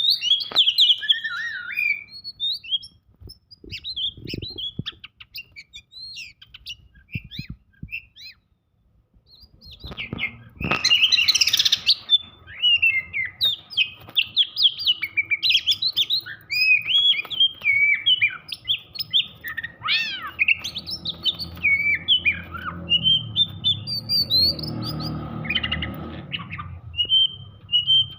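Oriental magpie-robin (kacer) singing fast, varied whistled phrases in an agitated, aggressive state. The song breaks off for a few seconds about a third of the way in, then resumes dense and unbroken.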